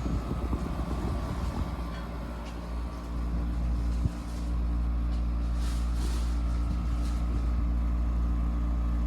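Kenmore (LG) 5,300 BTU window air conditioner running with its LG rotary compressor on and the blower going: a steady low hum under a rush of moving air.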